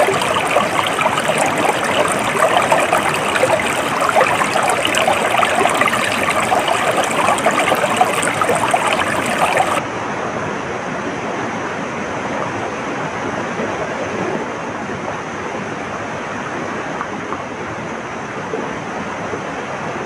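Flowing stream water, busy and splashing. About halfway through it cuts abruptly to a smoother, duller, steady rush of water.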